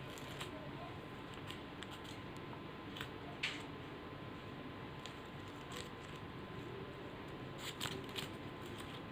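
Steady low room noise with a few faint, scattered small clicks and rustles.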